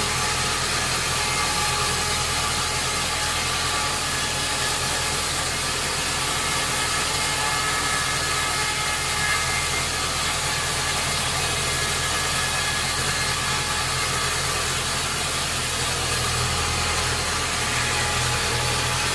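Sawmill machinery running steadily, a deep hum with a few thin steady whining tones above it, unchanging throughout.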